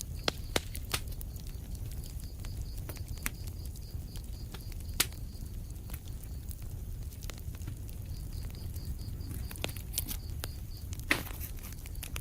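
Fire in a fireplace crackling: irregular sharp pops over a steady low rumble of the flames, with a louder crack near the end.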